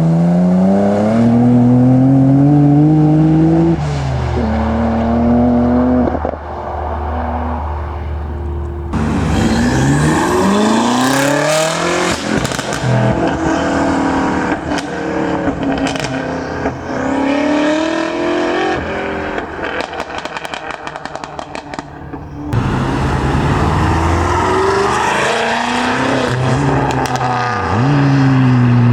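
Modified cars accelerating hard one after another, engines revving up and dropping back between gear changes. There is a rapid run of exhaust crackles about two thirds of the way through.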